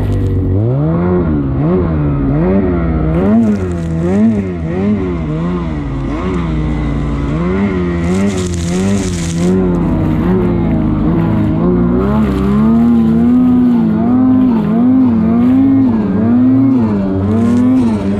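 Lynx Shredder RE snowmobile's two-stroke engine running hard under constant throttle work, its pitch swinging up and down about one and a half times a second. It climbs sharply just after the start, and in the last third it holds higher with a steadier wobble; a brief hiss passes over it around the middle.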